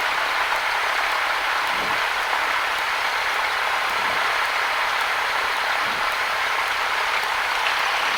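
Steady, even hiss of a Cessna 172's cabin noise with the engine running, with no distinct engine tone or change in level.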